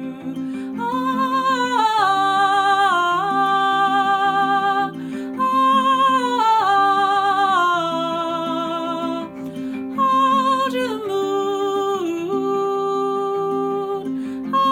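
Wordless singing with long held notes, vibrato and slides between pitches, over a repeating pattern of plucked acoustic guitar notes.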